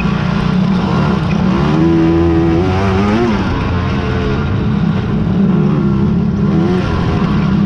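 Engines of racing quads (ATVs) running hard in a harescramble, several at once. About two seconds in, one machine's engine rises to the front, holds a high, steady pitch for about a second and a half, then drops away.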